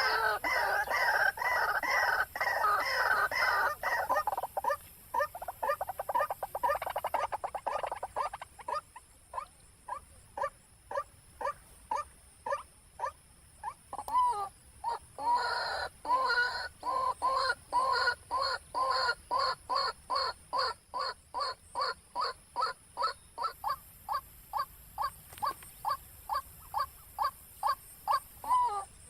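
White-breasted waterhen (ruak-ruak) calling: a long series of repeated calls, dense and overlapping for the first few seconds, then evenly spaced at two or three calls a second.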